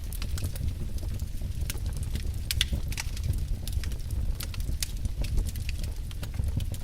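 Wood fire in a fireplace crackling: irregular sharp pops and snaps over a low, steady rumble of the flames.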